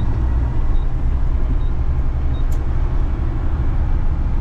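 Front-load garbage truck's diesel engine running steadily as the truck drives, a constant low rumble. Faint short high beeps come about once a second in the first half, with a single sharp click about halfway through.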